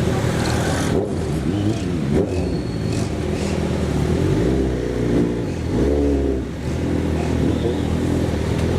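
A vehicle engine running and revving, its pitch rising and falling several times as it speeds up and slows.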